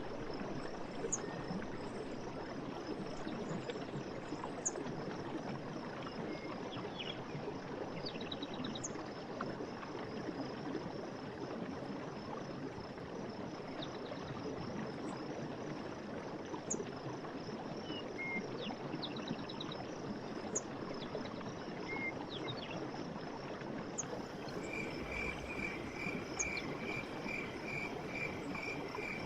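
Forest stream running steadily, with a constant high-pitched whine above it and scattered short bird chirps and trills. About 25 seconds in, a repeated piping call starts, about two notes a second.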